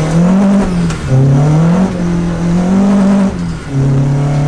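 Car engine pulling through the gears, heard from inside the cabin. The revs climb, drop at a gear change about a second in, climb again, then dip briefly near the end before settling.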